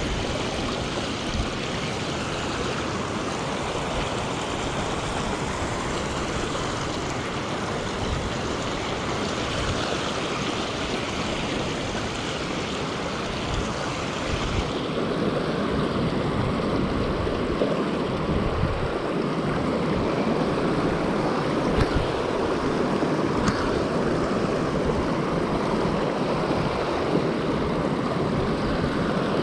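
Fast-flowing stream rushing steadily over rocks, its water swollen after rain. About halfway in, it gets a little louder and duller.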